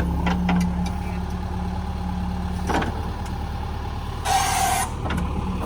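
JCB 3DX backhoe loader's diesel engine running steadily under work, with a few short knocks and a brief hiss a little over four seconds in.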